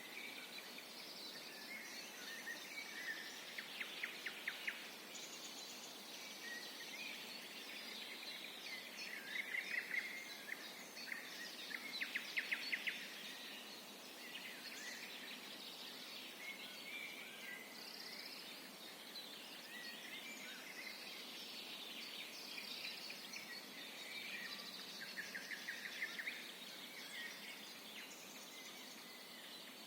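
A chorus of several woodland songbirds singing in spring, overlapping calls and songs over a faint steady hiss. Rapid trilled phrases stand out, loudest about four seconds in, twice around ten to thirteen seconds in, and again near the end.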